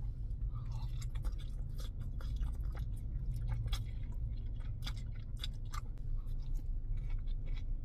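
Close-up wet chewing and slurping of lo mein noodles, with many short mouth clicks and smacks, over a steady low hum.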